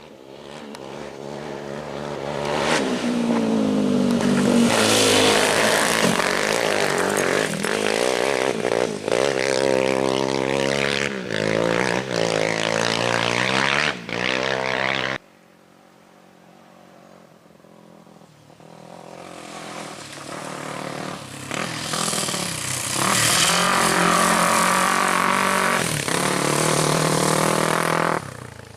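Two off-road race vehicles' engines passing one after the other, each rising from quiet to loud and revving up and down as it takes the curve. The first sound cuts off suddenly about halfway through; the second builds up again and cuts off near the end.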